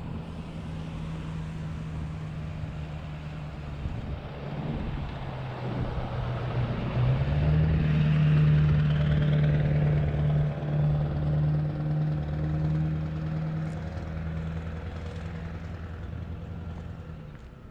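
Motor vehicle engine running with road noise: a steady low hum that steps up in pitch and gets louder about seven seconds in, then eases off toward the end.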